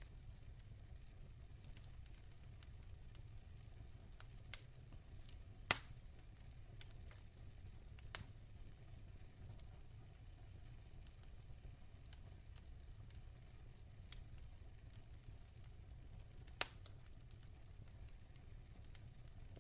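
Log fire burning, with a faint steady low rumble and a scatter of small crackles. Four sharp pops stand out, the loudest about six seconds in and the last near the end.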